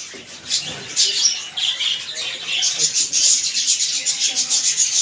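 Many caged birds chirping together: a dense, rapid chatter of high chirps, louder from about a second in.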